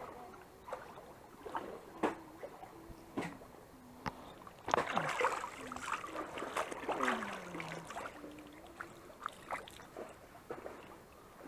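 Someone wading up a shallow rocky stream: water sloshing and splashing around the legs, with scattered sharp knocks, and faint voices now and then.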